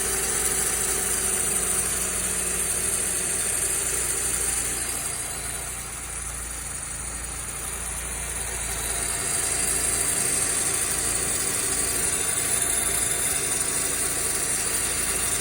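Toyota Aurion's 3.5-litre V6 idling on a cold start with a continuous rattle, getting quieter for a few seconds midway before coming back up.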